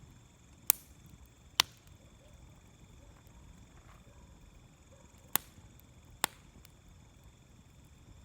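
Wood burning in a fire pit, popping sharply four times: two pops about a second apart near the start, then two more later on.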